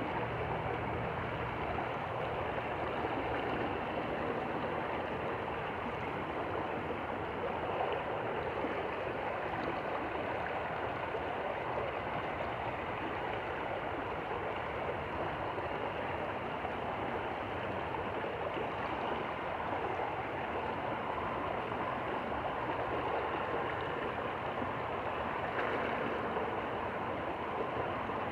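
Stream flowing steadily over stones, an even rushing gurgle, with a faint low hum underneath in the first few seconds.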